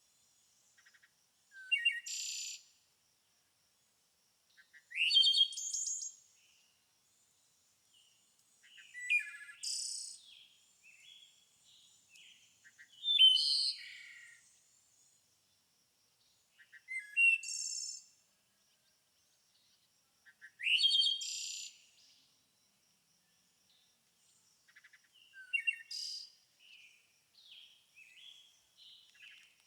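A songbird singing short, varied phrases of about a second each, repeated seven times with pauses of a few seconds between them. A faint steady high tone runs underneath.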